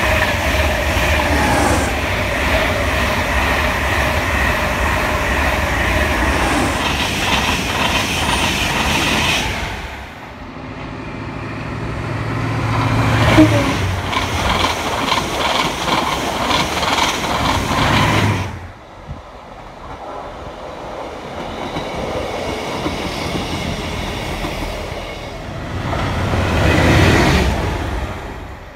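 Express passenger trains passing at speed on electrified main-line track: a loud rush of wheels and rattling on the rails. It cuts off abruptly twice, with a fresh pass swelling up each time, the loudest near the middle and again near the end.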